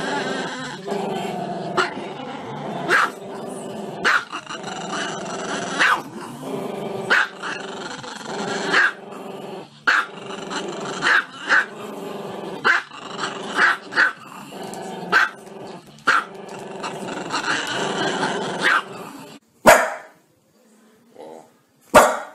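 Small long-haired black-and-tan dog howling with its muzzle raised: a long, wavering, continuous howl broken about once a second by sharper yelps. After a short silent pause, a different dog gives one sharp bark near the end.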